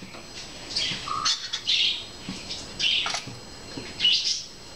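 A bird chirping in short high calls, about once a second.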